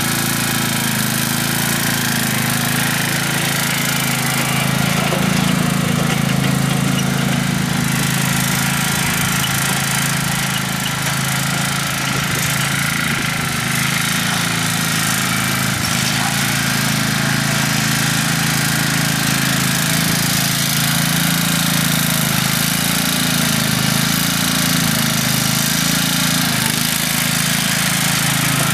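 Scotts S1642 lawn tractor's 16-horsepower Kohler engine running steadily as the tractor drives, briefly a little louder a few seconds in.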